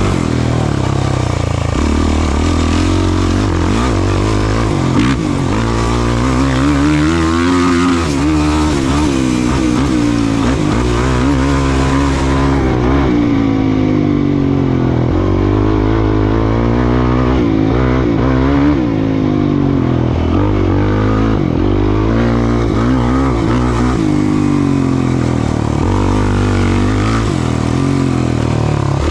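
An off-road racing engine running hard, its pitch rising and falling over and over as the throttle opens and closes.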